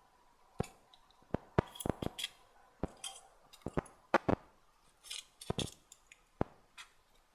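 Irregular sharp clicks and brief light scrapes of small hard tools and pins being handled while pinning out a tarantula specimen.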